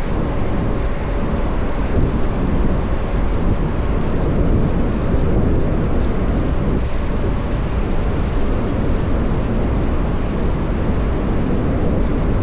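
Wind rushing over the microphone of a moving VMoto Stash electric motorcycle, a steady low roar with road noise under it. There is no engine note.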